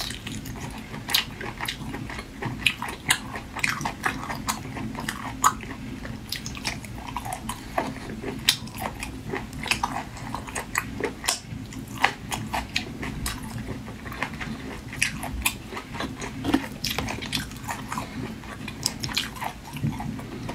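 Close-miked chewing and biting of marinated sea snail meat, with irregular wet clicks and smacks as the soft meat is bitten and pulled from the shells.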